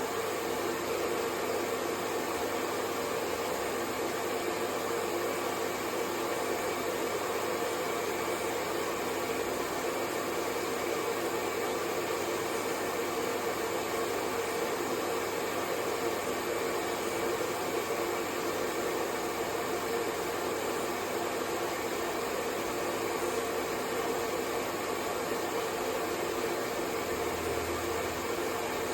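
Hair dryer running steadily: an even rush of air with a motor hum and a few faint steady tones in it.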